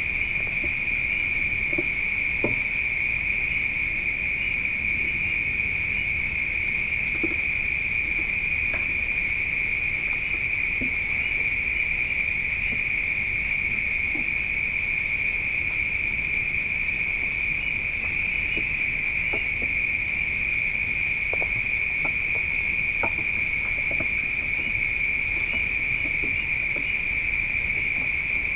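Steady night chorus of crickets: a continuous high shrill trill that does not let up, with a few faint scattered ticks here and there.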